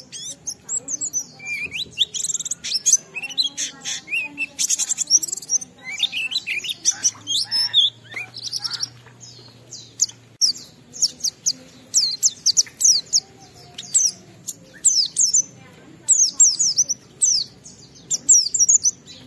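Pleci (white-eye) singing a fast, unbroken song of high chirps and quick whistled up-and-down sweeps, the lively continuous singing that keepers call gacor.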